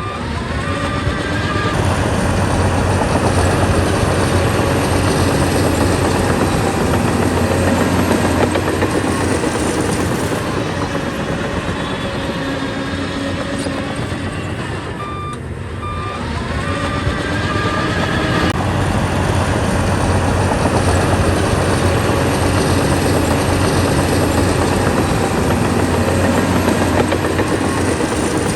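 Bulldozer's diesel engine working under load, a steady heavy drone that eases off briefly about halfway through and then builds back up.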